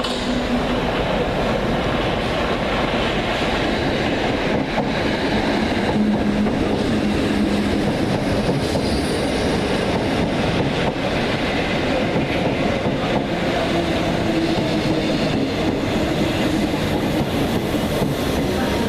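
London Underground S7 Stock train running: a steady rumble of wheels on rail with some clickety-clack, a light wheel squeal and a motor hum whose tone shifts now and then.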